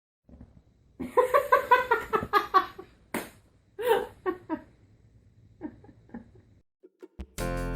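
A person laughing in a quick run of short bursts, then a few more laughs trailing off. Music starts near the end.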